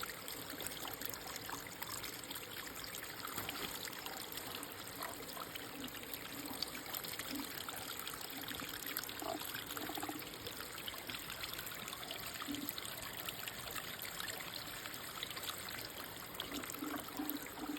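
Mountain stream water running and trickling over rocks, a steady rushing hiss with a few brief low gurgles.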